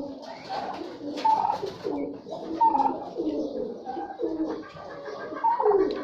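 A flock of domestic birds calling over one another, a steady stream of short overlapping notes, many of them sliding downward in pitch.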